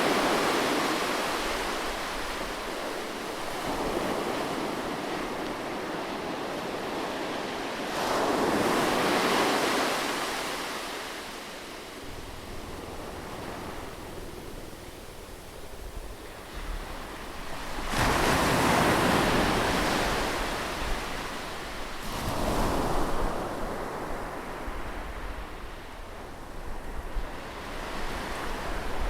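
Ocean surf: waves breaking and washing up the shore, with four loud surges several seconds apart and a softer hiss of wash between them.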